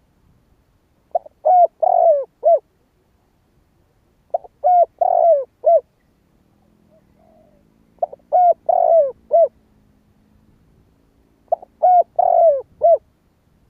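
Decoy spotted dove cooing: four repeated phrases, each a few short notes ending in a longer falling coo, about every three and a half seconds.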